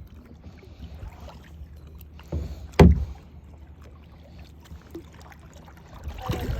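Kayak being paddled: water noise and a low rumble against the hull, with scattered small knocks and one sharp knock about three seconds in.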